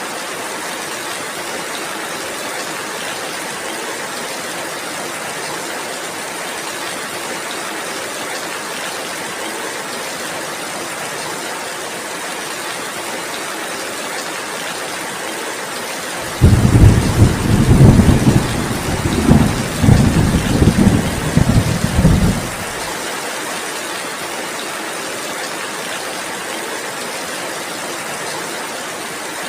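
Steady heavy rain, with a rumbling peal of thunder that starts suddenly about halfway through, rolls for some six seconds as the loudest sound, and then dies away under the rain.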